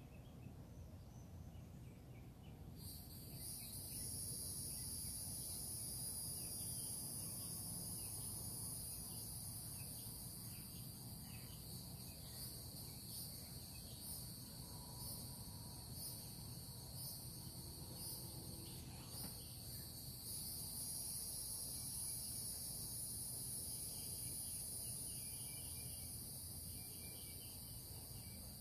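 Insects buzzing: a steady high-pitched drone that starts about three seconds in, with a stretch of quick pulsing in the middle.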